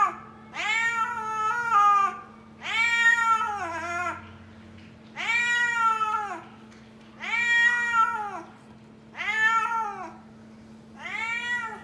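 Kitten meowing repeatedly: about six long, drawn-out meows roughly two seconds apart, each rising and then falling in pitch. It is calling for food.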